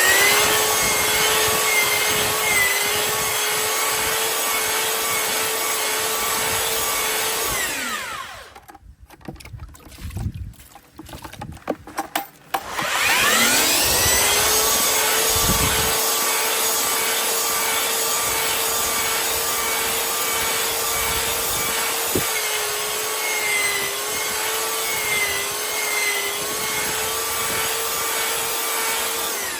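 Electric paddle mixer churning sand-and-cement mortar in a bucket. The motor runs at a steady speed, winds down and stops about seven seconds in, then spins back up after a few seconds' pause and runs steadily again until it winds down at the end.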